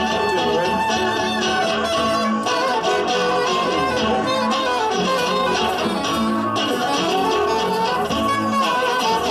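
Live rock-folk band playing an instrumental passage: guitar keeps the rhythm while a wind instrument carries held, gliding melody notes.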